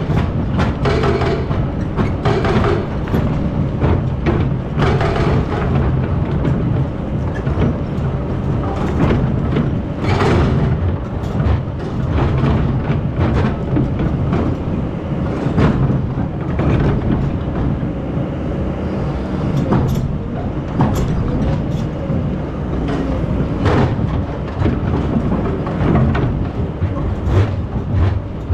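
Hydraulic excavator's diesel engine running steadily under load, with irregular metallic clanks and knocks from the machine working throughout.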